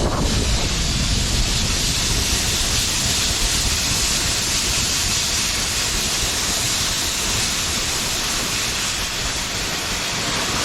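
Steady rushing hiss of a chain of snow tubes sliding down a wet snow-tubing lane, with wind buffeting the microphone as a low rumble underneath.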